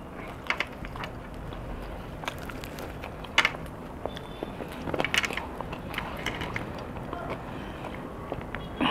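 Close-up chewing and biting of chicken pizza: wet mouth sounds with scattered crunches of crust, a few sharper ones about three and a half and five seconds in.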